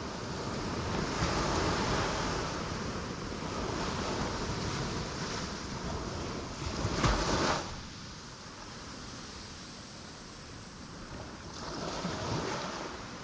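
Ocean waves breaking on rocks: a continuous wash of surf that swells and falls, with the loudest crash about seven seconds in and another surge near the end.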